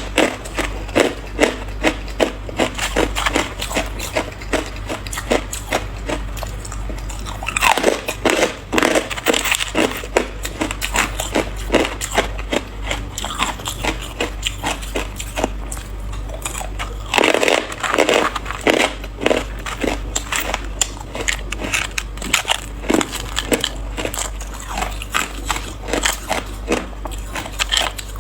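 A person biting and chewing hard ice: a constant run of sharp crunches and crackles. Louder clusters of bites come about eight seconds in and again around seventeen seconds.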